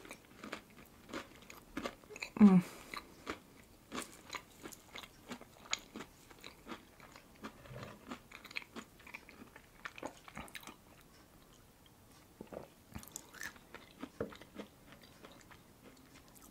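Close-miked ASMR eating sounds: soft chewing and wet mouth clicks from a salmon and cream-cheese tartlet being eaten. About two and a half seconds in comes a short hum that drops in pitch, the loudest sound.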